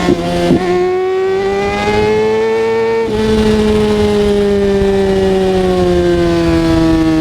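A Kawasaki ZX-6R 636's inline-four engine running under way. The engine note drops briefly twice near the start, rises in pitch for about two seconds, then falls slowly in pitch for the rest.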